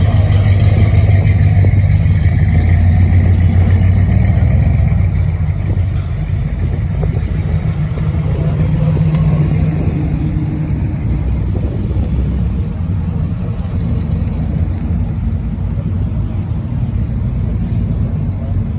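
A car engine running with a low rumble, loudest for the first few seconds, easing off about five seconds in and swelling briefly again around nine seconds.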